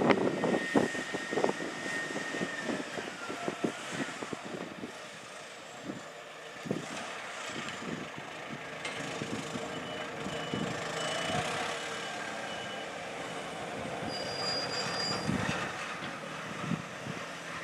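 Port and ferry machinery running steadily with scattered clanks and knocks, while a vehicle's reversing alarm beeps about twice a second for a few seconds midway.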